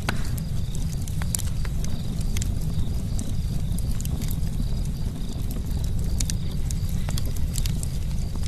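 Campfire crackling: many sharp, irregular snaps and pops over a steady low rumble of the burning wood.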